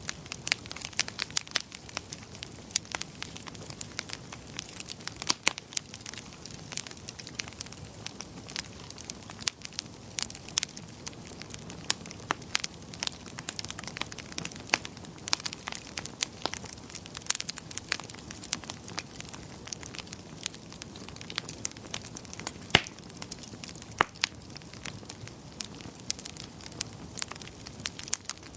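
Wood fire crackling in a fireplace: a steady low rush of flames with many sharp irregular pops and snaps, one louder pop a little past two-thirds of the way through.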